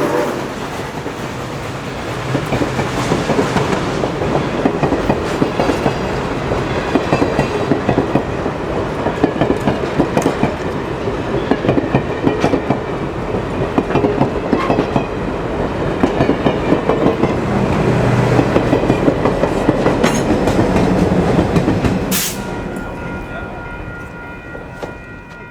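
Central Railroad of New Jersey 0-6-0 steam locomotive 113 running at speed, its exhaust beating rapidly over wheel and rail clatter. Near the end there is a sharp crack, then a few steady high tones as the sound fades away.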